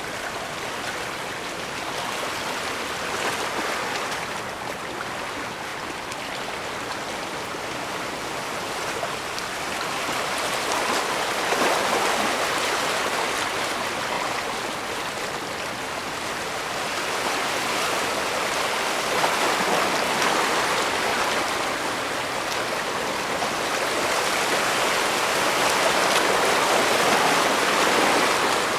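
Small bay waves washing in against the shore in a steady rush of water, swelling and easing about every seven or eight seconds.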